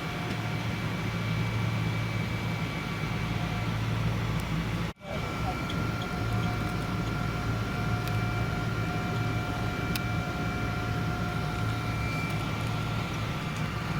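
Steady cabin noise inside a Boeing 777-200 airliner: a low hum under a hiss, with a few steady whining tones above it. About five seconds in the sound drops out abruptly for a moment, then resumes unchanged.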